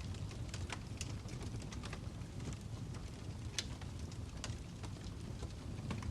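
Logs burning in a fireplace: a steady low rumble of flame with irregular sharp crackles and pops, the loudest about three and a half seconds in.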